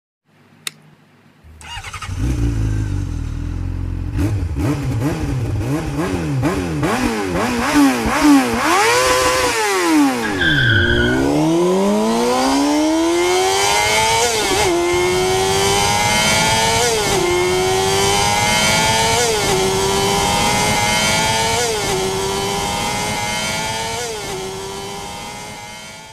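Motorcycle engine revving up and down, then accelerating up through the gears, its pitch climbing and dropping at each shift about every two and a half seconds, fading out near the end.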